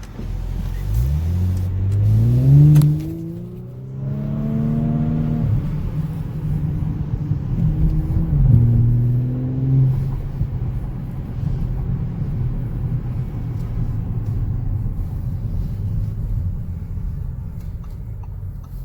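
2019 Audi S5 Sportback's turbocharged 3.0-litre V6 accelerating hard through the gears. The engine pitch climbs, drops at an upshift about three seconds in and climbs again. After another shift around eight to ten seconds in, it settles into a steady cruising drone.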